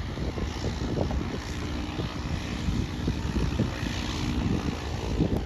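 Small propeller plane's engine droning steadily, mixed with wind buffeting the microphone.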